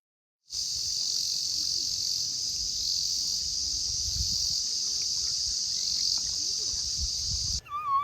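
Steady, high-pitched insect chorus starting about half a second in and cutting off abruptly near the end, over a faint low rumble.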